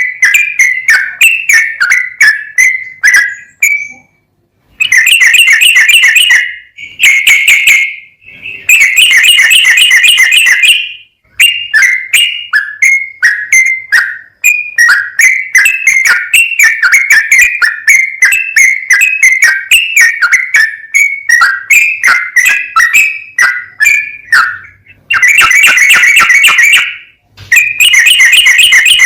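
Yellow-vented bulbul (trucukan) singing continuously in a long, lively song, made of quick repeated whistled notes broken by several runs of rapid, dense chattering phrases.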